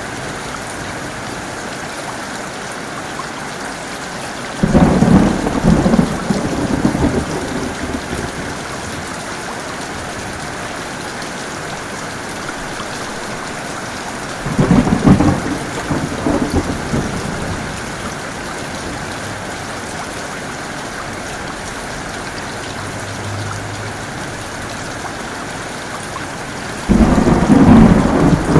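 Steady heavy rain with three claps of thunder: each starts suddenly and rumbles away over a couple of seconds, about five, fifteen and twenty-seven seconds in, the last one still rumbling at the end.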